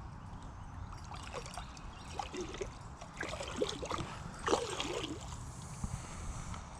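Water trickling and gurgling in a rain-swollen creek, with short irregular gurgles that come thickest midway through.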